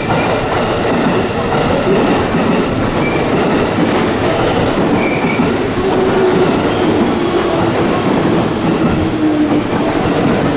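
Electric train pulling into the platform: wheels clattering over the rail joints and a motor whine that falls steadily in pitch as it brakes, with a couple of brief high squeals from the wheels or brakes.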